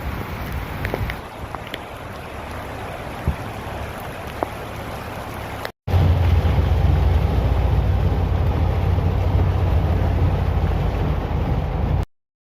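Rain falling, an even hiss with scattered drop ticks. After a sudden cut, a louder steady low rumble takes over.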